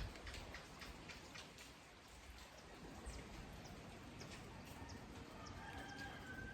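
Light rain falling, individual drops landing in a scattered, uneven patter. A faint high, steady call, a bird or other small animal, sounds briefly near the end.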